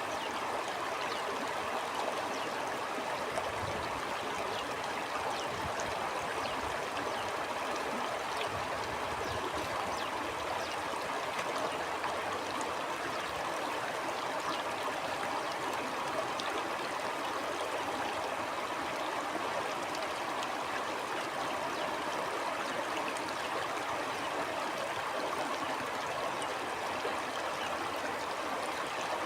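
Stream water flowing steadily, a continuous even rush with faint small splashes scattered through it.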